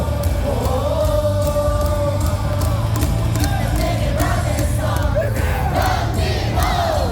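Baseball stadium crowd singing a cheer song together with music over the stadium speakers: a long held note at first, then many voices from about four seconds in. Quick sharp clicks run through it.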